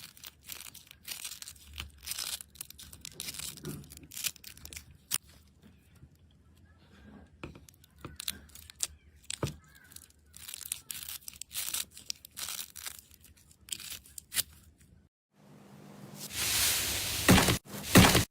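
Slime being pressed and stretched by hand, giving many small sharp crackles and pops. After a short pause near the end, a louder and denser stretch of crackling and squishing follows.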